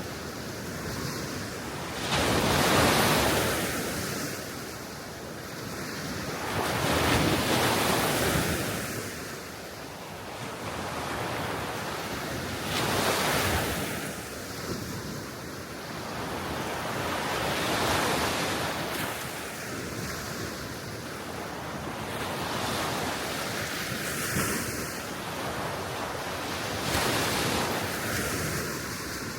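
Small Baltic Sea waves washing onto the shore, each surge of surf swelling and fading about every five seconds, six times over. Wind on the microphone adds a steady rush underneath.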